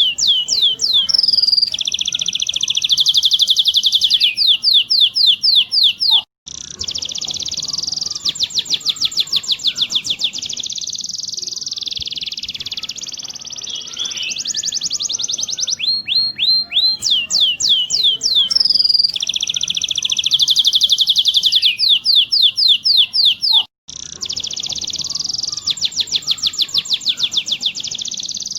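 Domestic canary song: long rolling trills and fast runs of repeated, sweeping high whistled notes, one phrase after another, the 'ngerol' rolling song used to tutor young canaries. The recording cuts out for an instant twice, where the loop is spliced.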